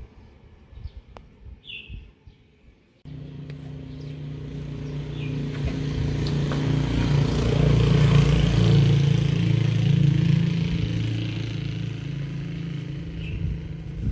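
A motor engine running with a steady drone. It cuts in suddenly about three seconds in, grows louder to a peak in the middle and fades away near the end, with a few bird chirps before it.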